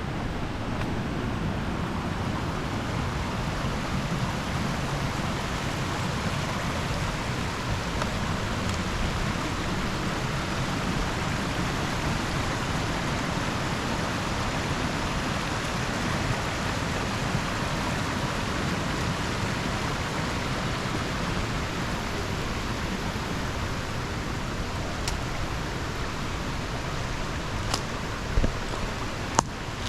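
Steady rush of a shallow river running over rocks, with a few short sharp clicks near the end.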